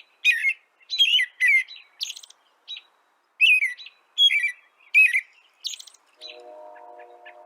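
A songbird chirping over and over, short chirps that slide down in pitch, about two a second, pausing near the end. Near the end a quieter steady hum with several tones starts underneath.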